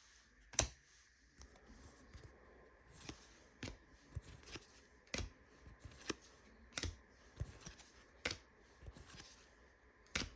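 Trading cards being handled and flipped one by one: a series of short, sharp clicks at irregular intervals, roughly one a second, as card edges snap against each other.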